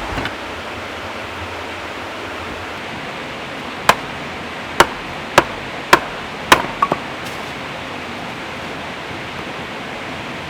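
Axe chopping wood: five sharp strikes roughly half a second apart, followed by two lighter quick knocks, over a steady rushing hiss.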